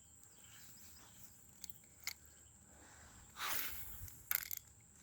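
Steady high-pitched drone of insects, with a few faint clicks and a brief rustle about three and a half seconds in.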